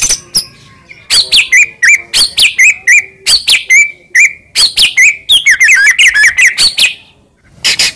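White-rumped shama (murai batu) singing loudly: a fast, varied run of sharp whistled notes and quick rising and falling phrases, breaking off briefly just before the end and starting again.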